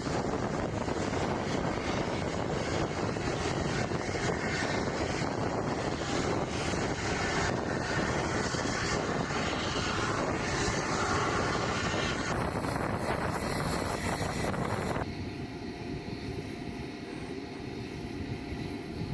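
KC-135 Stratotanker's CFM F108 turbofan jet engines running with a steady, loud rush. The sound changes abruptly about two-thirds of the way in and again a few seconds later, turning somewhat quieter.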